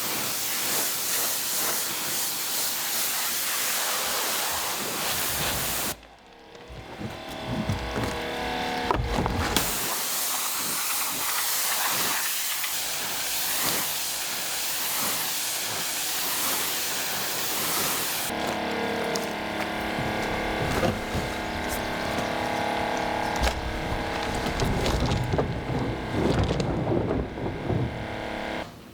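Compressed air hissing in long, loud stretches, with a sudden break about six seconds in. From about two-thirds of the way through, a steady machine hum with several tones runs under the hiss.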